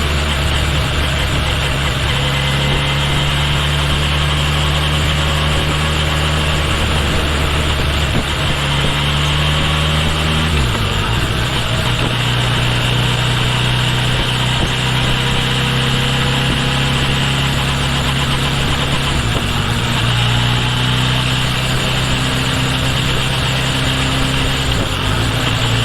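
Kawasaki Ninja H2 SX's supercharged inline-four engine running steadily while riding, heard from the tail of the bike. Its pitch changes abruptly about ten seconds in, with two brief dips later on.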